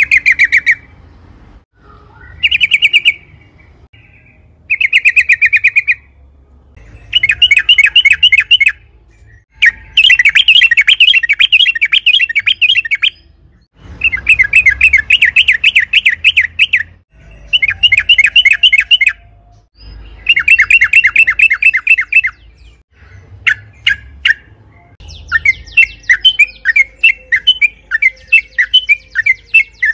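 Yellow-vented bulbul (trucukan) singing: loud phrases of rapid, bubbling notes, each lasting one to three seconds with short pauses between. Near the end the song breaks into looser, separate chirps.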